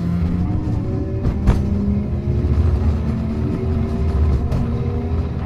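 Hankai Tramway car 351 running, heard from inside the car: a steady low rumble of wheels on rail under a steady motor and gear whine. A sharp knock from the track stands out about one and a half seconds in, with a fainter one near the end.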